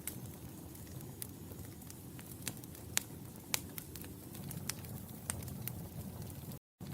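Wood fire burning in a fireplace: a steady low rumble of flames with scattered sharp crackles and pops, about one or two a second. The sound cuts out completely for a split second near the end.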